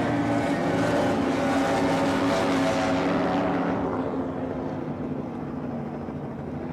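Offshore race boat engines running at speed with a hiss of wind and water over them, several steady pitches at once; the sound fades and dulls from about four seconds in as the boats draw away.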